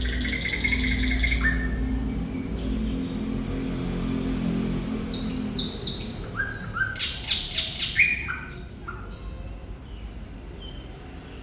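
Thrush nightingale singing in varied phrases: a dense buzzing rattle at the start, then short clear whistled notes, a fast run of loud clacking notes about seven seconds in, and a few high whistles after that.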